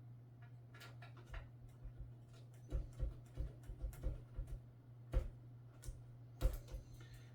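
Irregular small clicks and taps, about a dozen, coming thickest from about two and a half seconds in: a screwdriver driving the last motherboard screws into a PC case.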